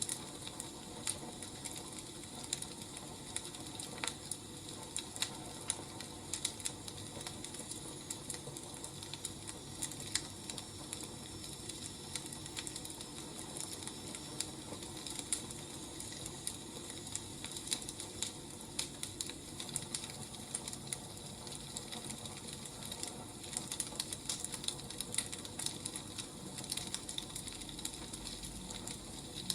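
Wood fire crackling: irregular sharp pops and snaps over a steady low hiss, coming a little more thickly near the end.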